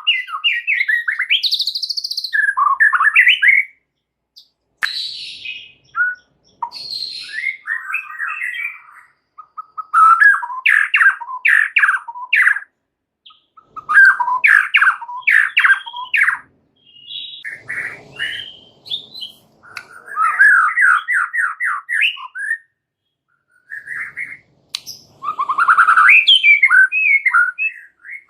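A white-rumped shama singing loud, restless bursts of rapid, varied phrases: trills, quick repeated notes and glides, with short pauses between them.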